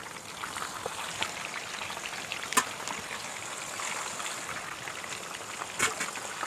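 Ready-made tandoori chicken pieces frying in hot oil: a steady sizzle with scattered pops, the sharpest about two and a half seconds in and another near the end.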